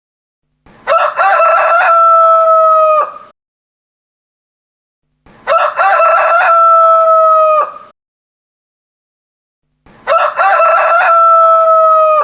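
A rooster crowing three times, about four and a half seconds apart, each crow alike. Each is a broken opening that runs into a long held note and stops sharply, with silence between crows; the last is cut off at the end.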